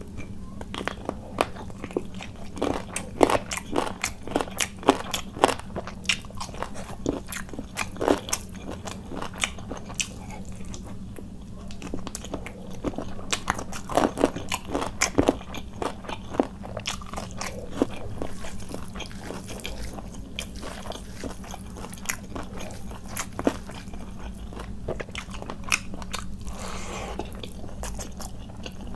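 Close-miked eating by hand: wet mouth clicks and bites of chicken curry and khichuri, coming thick in the first half and thinning out in the second. Near the end a softer smear as fingers mix the rice and curry, over a steady low hum.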